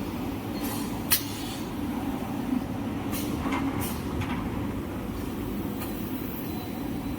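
Toilet-paper roll cutting machine running with a steady mechanical hum, cut by a few short, sharp hisses: one about a second in and two more a few seconds later.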